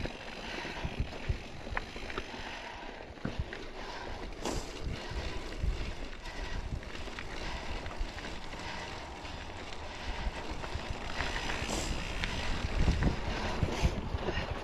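Wind buffeting the microphone in an uneven low rumble that swells in gusts, with a few light clicks and rattles.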